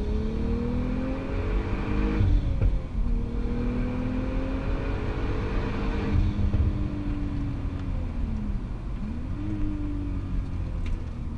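Turbocharged VW Golf Mk4 R32's VR6 engine heard from inside the cabin, pulling hard through the gears. Its pitch climbs, falls sharply at an upshift about two seconds in, climbs again and falls at a second shift about six seconds in, then sags and picks up again near the end.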